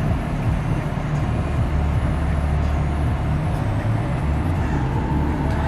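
Steady low hum of a 2018 GMC Yukon Denali's 6.2-litre V8 idling, heard from inside the cabin.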